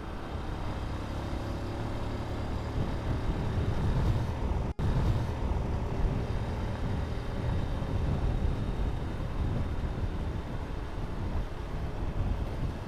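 Yamaha LC135 underbone motorcycle on the move: the single-cylinder four-stroke engine running under steady rumbling wind and road noise. The sound drops out for an instant about five seconds in.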